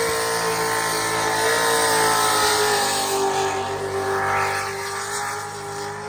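Car engine held at high revs for a burnout: a steady high-pitched engine note that sags slightly and grows fainter toward the end, with a hiss over it.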